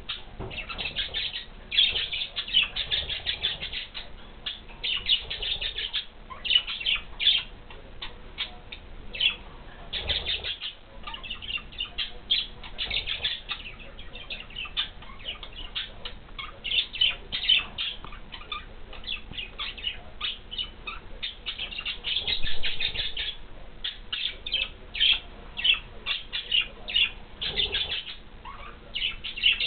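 Budgies chattering, a busy, unbroken stream of rapid chirps and warbles, with a brief low rustle about ten seconds in.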